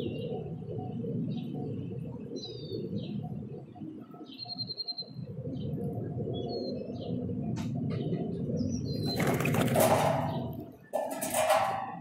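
Small birds chirping at a feeder over a steady low rumble. Near the end come two loud bursts of wing flapping as birds take off or land.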